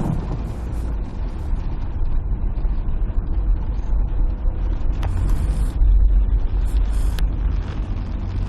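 Thunder rolling in a long, low rumble that swells about six seconds in.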